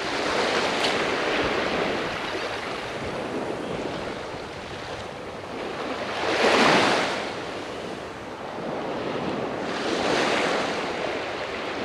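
Small waves washing in along the shore, with wind buffeting the microphone. A wave washes through loudest about six and a half seconds in, and another swells near ten seconds.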